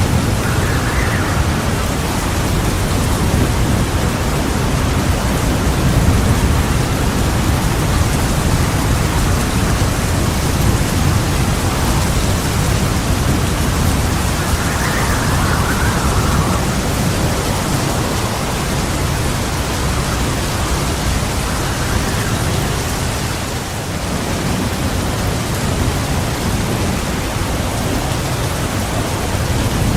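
Heavy, steady rain with a low, continuous rumble of thunder underneath and no sharp claps.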